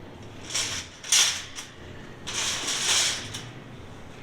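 Metal shopping cart rattling and clattering as it is pulled free and pushed, in two noisy stretches of about a second each with a few sharp clicks.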